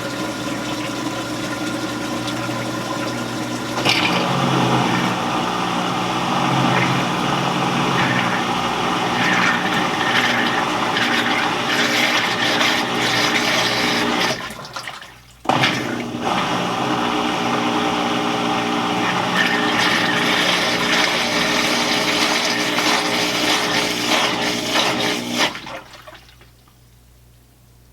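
Admiral belt-drive top-load washing machine draining: the motor and drain pump run with a steady hum while water rushes and gurgles out. The rushing cuts out briefly about halfway through, comes back, and stops shortly before the end, leaving only a faint hum.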